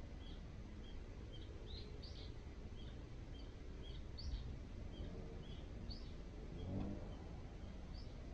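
Small birds calling from the lakeside woods, short high chirps about twice a second, over a low steady outdoor rumble. A brief low thump comes about four seconds in.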